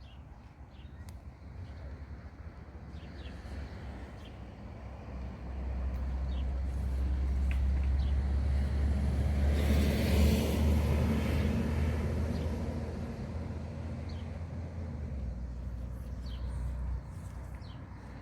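A motor vehicle passing by: a low engine rumble and tyre noise that grow louder to a peak about halfway through, then fade. Birds chirp briefly here and there over it.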